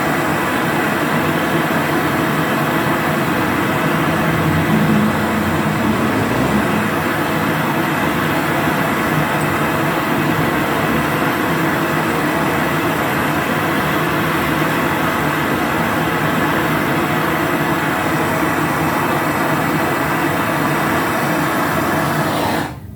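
Acetylene brazing torch flame burning with a steady, loud hiss while a charging valve is brazed onto a refrigerator compressor's pipe. It cuts off suddenly near the end.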